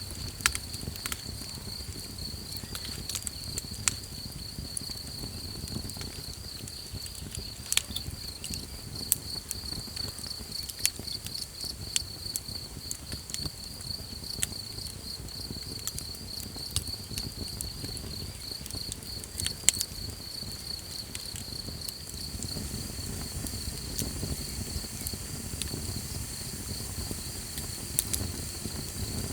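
Campfire crackling, with sharp pops scattered irregularly and a few louder ones, over a low rumble of the burning fire. Crickets chirp in a continuous high trill.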